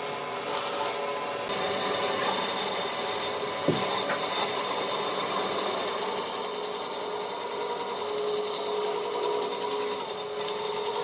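A power tool working wood, running steadily: a continuous abrasive noise over a held motor tone.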